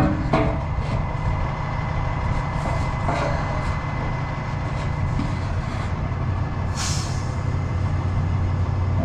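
Truck engine idling steadily, with a few light knocks of work under the truck and a brief hiss about seven seconds in.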